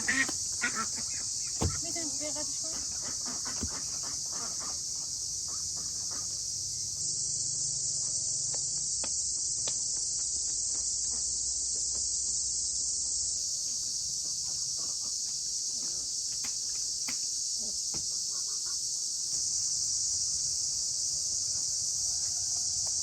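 Steady, high-pitched chorus of insects chirring, with a few short clicks in the first two seconds.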